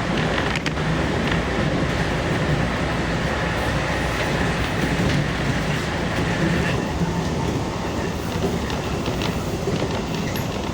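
Keihan electric commuter train running between stations, heard from inside the car: steady rumble of wheels on rail with a few clicks over the rail joints. A higher hum drops away about two-thirds of the way through.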